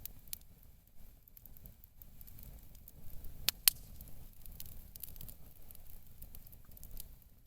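Rustling handling noises with scattered small clicks over a low rumble, and two sharp clicks close together just past halfway.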